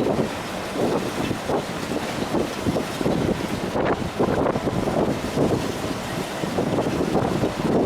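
Wind buffeting the microphone: a rough rushing noise that comes and goes in uneven gusts.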